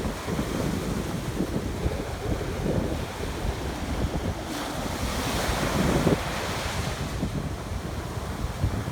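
Ocean surf washing onto a beach, with wind buffeting the microphone in low, uneven rumbles. A wave's wash swells to a louder hiss about five seconds in, then eases.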